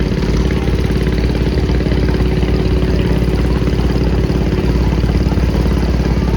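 Vintage farm tractor engine running steadily as it passes close by, with an even, rapid exhaust beat.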